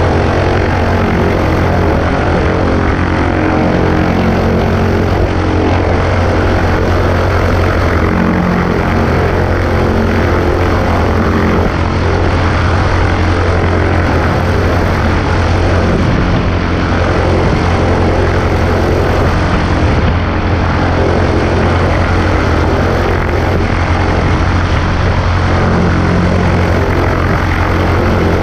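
Cessna 140A's piston engine and propeller running steadily with a loud, even drone, mixed with wind rush.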